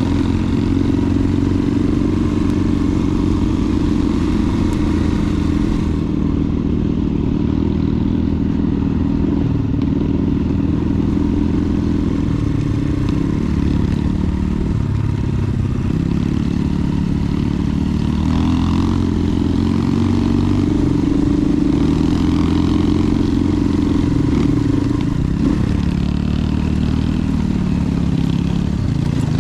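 Enduro motorcycle engine running steadily while being ridden, its pitch shifting a little with the throttle.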